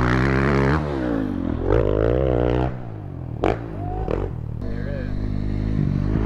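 Dirt bike engine revving: the pitch holds high, climbs again about two seconds in, then drops away. A couple of sharp clacks come around the middle.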